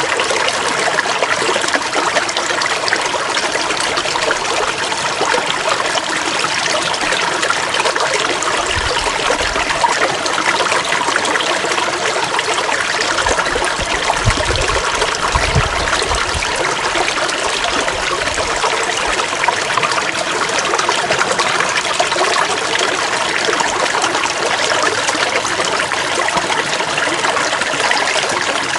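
Stream water trickling and running steadily. A few low rumbles come through about a third to two-thirds of the way in.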